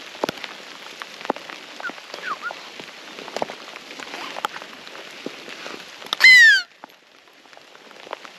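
Light rain pattering, then about six seconds in one short, loud call that falls in pitch.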